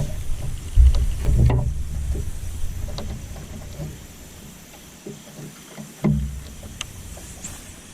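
Knocks and thumps on a fishing boat, the loudest about a second in, again soon after and about six seconds in, with small clicks between them over a low rumble that fades away.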